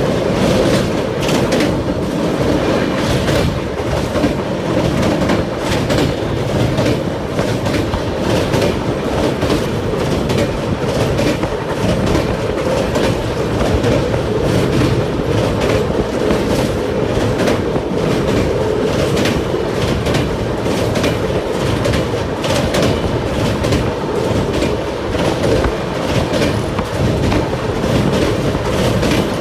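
Passenger express train running along the track: a steady rumble of the coach with wheels clicking over rail joints.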